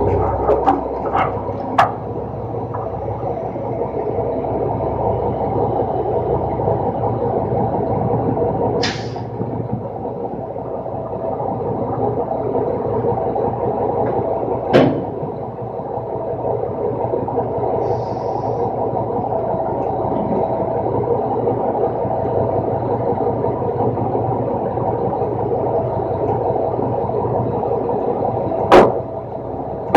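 Roll-off garbage truck running with a steady droning hum. A few sharp knocks come through, about a second and two seconds in, again around the middle, and just before the end.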